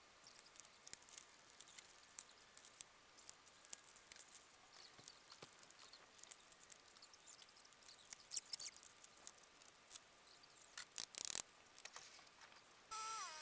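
Faint, rapid scattered clicks and ticks of tool and metal work played back many times faster than real time. Just before the end a pitched whine with several tones starts, dips in pitch and then holds steady.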